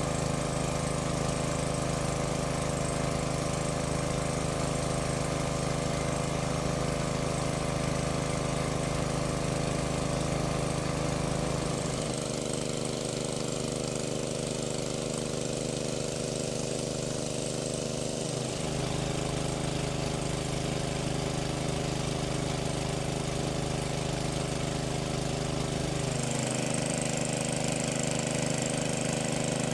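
A small engine running steadily, its pitch shifting slightly about twelve seconds in and again near the end.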